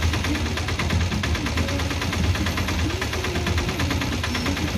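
BCN covered freight wagons rolling slowly over the station yard's points, their wheels clattering in a rapid run of clicks over a steady low rumble.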